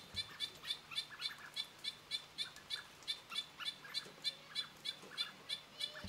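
A bird calling a rapid, even series of short high chips, about four a second, with a few lower notes in between.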